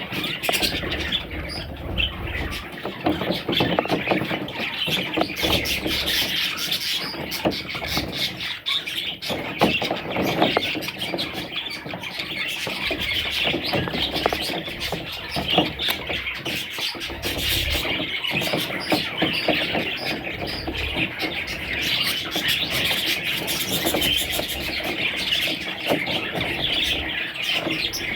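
A group of budgerigar chicks chirping and squeaking without pause, a dense, high-pitched chatter.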